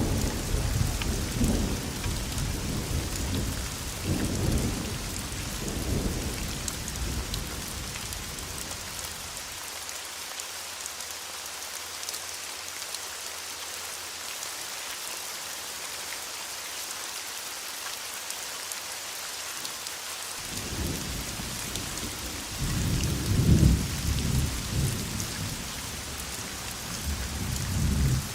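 Steady rain hiss with rolling thunder. A low rumble dies away over the first third, then a new roll of thunder starts about two-thirds of the way through, loudest a few seconds later, and runs on to the end.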